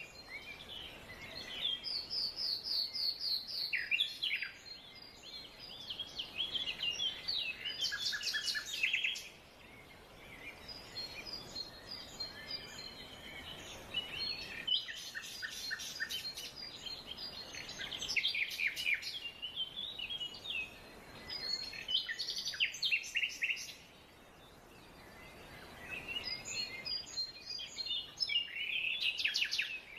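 Several songbirds singing and chirping in repeated phrases of quick notes and short trills, over a faint steady background hiss of forest ambience.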